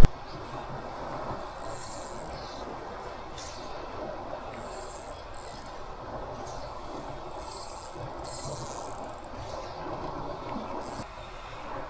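Steady outdoor background noise of water and breeze at a fishing spot, with short higher hisses coming and going every second or two.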